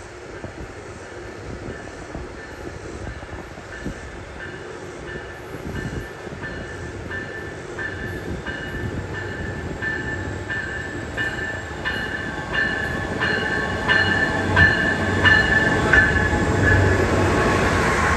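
Amtrak passenger train approaching and growing steadily louder. A regular ringing pulse repeats about one and a half times a second and gets stronger as the train nears.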